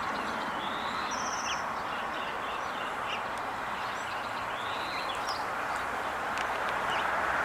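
Small songbirds chirping, with a short rapid trill and a few brief arching calls, over a steady background hiss.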